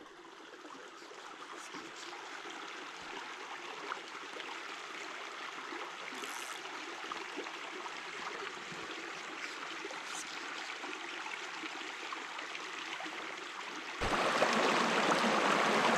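A shallow stream running over rocks and riffles: a steady rush of water that steps abruptly louder about two seconds before the end.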